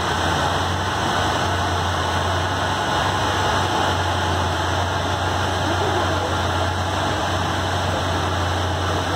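Pontiac Fiero's swapped-in 3.4-litre V6 idling steadily while strapped to a chassis dyno, with a steady rush of noise over it and no revving.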